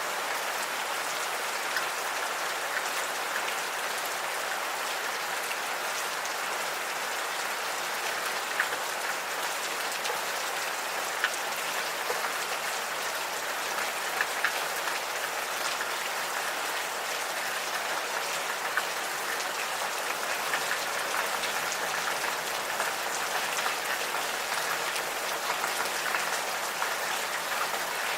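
Gentle, steady rain falling, with many individual drops ticking close by and a few louder drop hits now and then.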